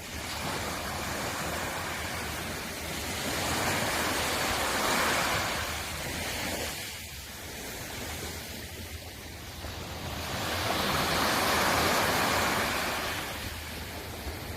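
Sea waves breaking and washing on the shore, a steady rush that swells twice, about five seconds in and again around eleven to twelve seconds, and ebbs between.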